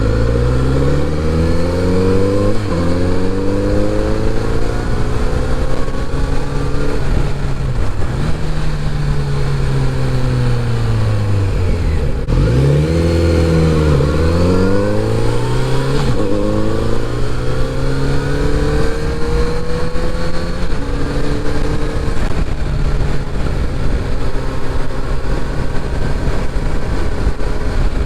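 Kawasaki Z900RS inline-four engine pulling through the gears while riding. The revs climb and drop at each shift, and about halfway through it eases off and accelerates again, over wind noise.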